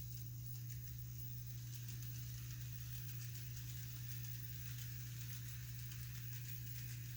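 Kato N scale model train running on its track, the locomotive fitted with no sound decoder: a steady low hum with faint fine clicking and rattling from the wheels and cars.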